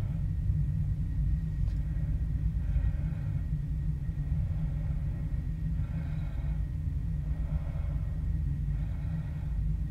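Norfolk Southern mixed freight train rolling past at a distance: a steady low rumble, with a higher-pitched tone that comes and goes every second or two.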